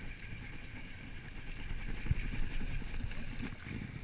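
Gusty wind rumbling on the microphone, with a few soft low thumps and a faint steady high hum underneath.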